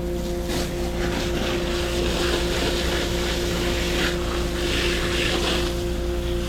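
A motor running steadily, a constant droning hum with a low rumble, with a few short bursts of hiss over it.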